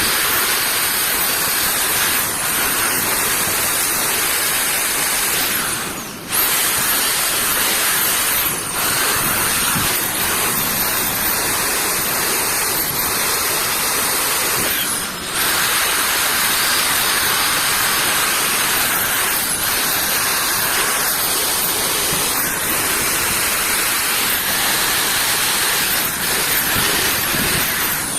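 Loud, steady hissing noise, like a spray or jet of air or water, that drops out briefly three times.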